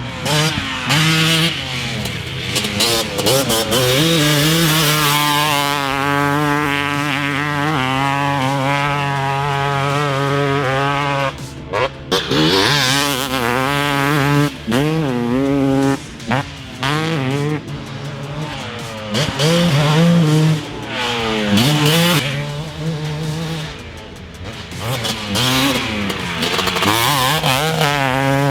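2019 TM250 two-stroke dirt bike engine, fitted with a Pro Circuit exhaust, revving up and down repeatedly as it is ridden, with the pitch climbing and dropping through throttle and gear changes.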